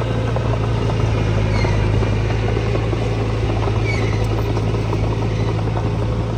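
Diesel engine of heavy earthmoving machinery running steadily at an even pitch, with a strong low hum.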